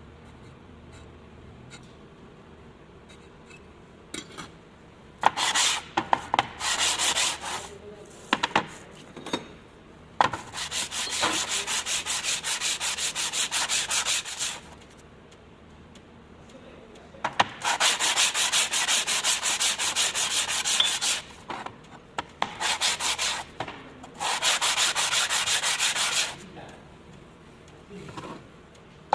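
Hand abrasive work on a metal dovetail part: quick back-and-forth rubbing strokes in five runs of about one to four seconds each, with a few knocks in the gaps.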